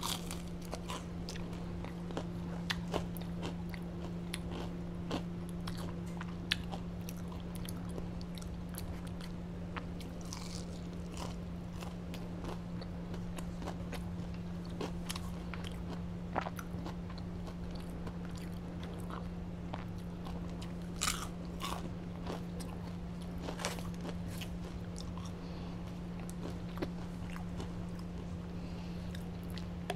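Close-up eating sounds: biting into and chewing fried chicken strips and fries, with many small crunches and mouth clicks picked up by a clip-on microphone. A steady low hum runs underneath.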